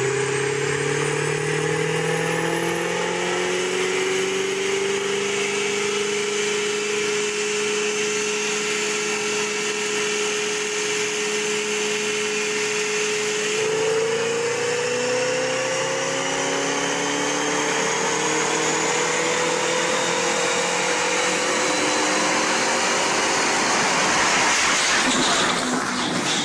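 A vehicle driving, heard as a steady engine whine over road noise whose pitch climbs slowly as it speeds up, shifting about halfway through.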